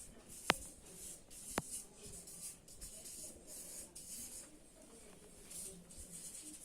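Black marker writing on paper or cardboard: a run of short scratchy strokes, with two sharp clicks about half a second and a second and a half in.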